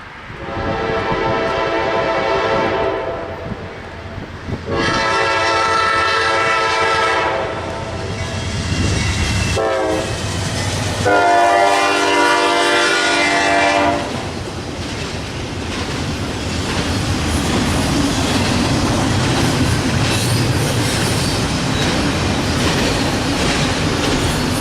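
Norfolk Southern GE Dash-9 locomotive sounding its Nathan K5LA five-chime horn in the grade-crossing pattern (long, long, short, long), the chord strangely tuned. After the last blast the train rolls past with a steady rumble and wheels clicking over the rail joints.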